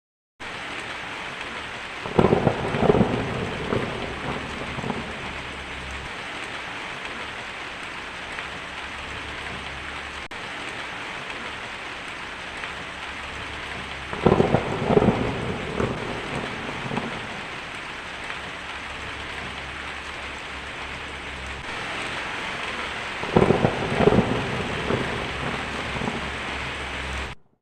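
Steady heavy rain hissing, broken three times by loud cracks of thunder that rumble on for two or three seconds each, about two seconds in, about fourteen seconds in and near the end.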